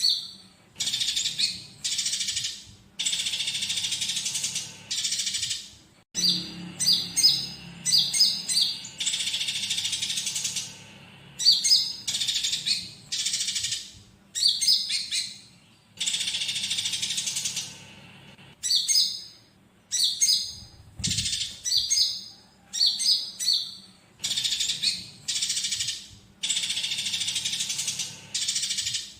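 Male olive-backed sunbird (konin) singing: quick runs of short, high, rising chirps alternating with longer buzzy rattling trills, repeating over and over. The song is filled with fighting-sparrow chatter phrases.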